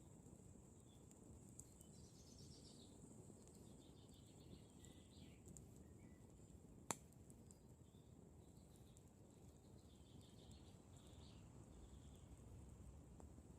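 Faint wood campfire burning with a low hiss and one sharp crackle about seven seconds in. Faint bird trills come and go in the background.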